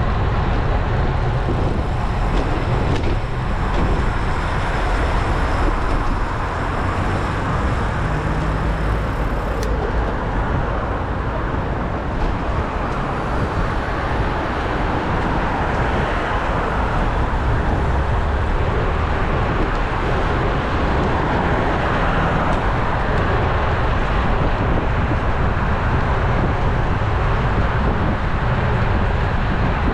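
Steady wind rush and rumble on a GoPro action camera's microphone while riding a road bike, with tyre and road noise mixed in.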